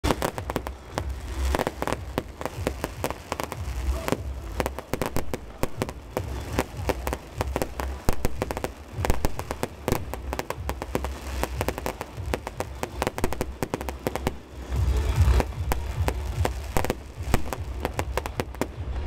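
Aerial fireworks display: a continuous barrage of rapid bangs and crackles over deep booms, with the booms growing heavier about fifteen seconds in.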